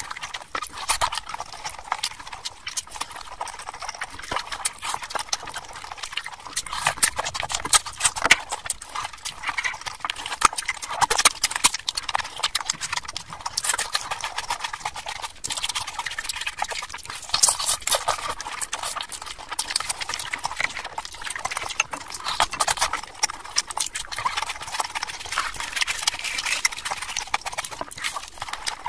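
Close-miked chewing and lip-smacking of someone eating mutton curry, raw onion and luchi by hand: a dense, irregular run of wet mouth clicks and smacks.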